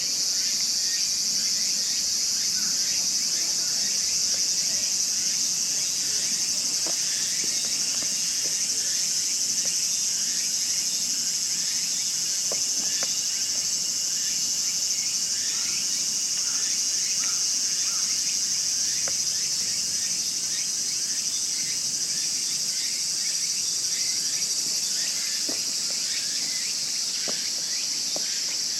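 Dense, steady outdoor insect chorus: a constant high shrill, with faint scattered chirps and a few light clicks underneath.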